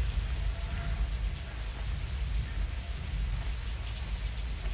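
Steady heavy rain falling over a constant deep rumble.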